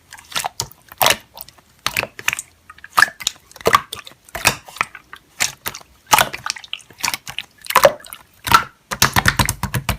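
Slime being squished and kneaded by hand, giving a quick, irregular run of wet clicks and pops.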